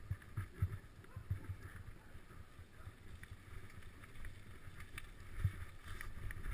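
Wind buffeting the microphone on a moving bicycle, heard as irregular low rumbles and thumps with a few faint clicks.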